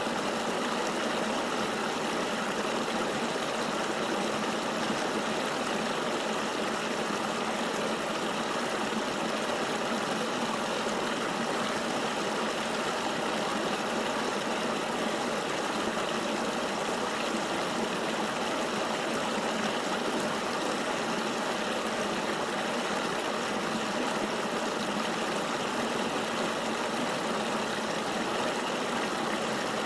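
Steady rushing of a flowing river, an even wash of water noise with no distinct splashes or changes.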